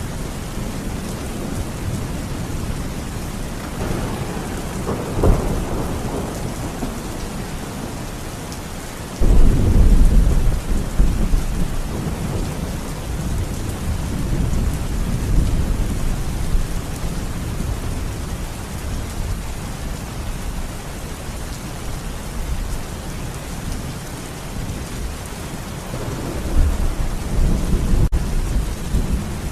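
Thunderstorm: steady rain throughout, with thunder. There is a sharp crack about five seconds in, then a loud, deep rumble that starts abruptly about nine seconds in and rolls on for several seconds, and another rumble near the end.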